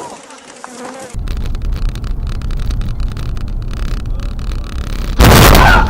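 A steady low engine rumble, then about five seconds in a sudden, very loud crash lasting over half a second: the impact that breaks a window.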